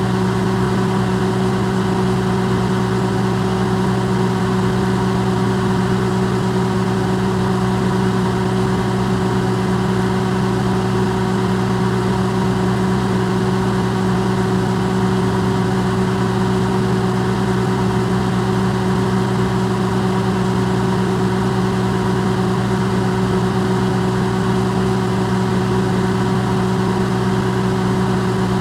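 Electrolux microwave oven running, recorded amplified: a steady low hum with several held tones over an even hiss, unchanging throughout.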